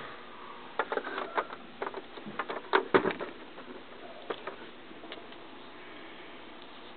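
A quick run of about a dozen sharp clicks and light knocks over two and a half seconds, loudest about three seconds in, as parts of a small can-shaped mini fridge are handled; then faint handling noise.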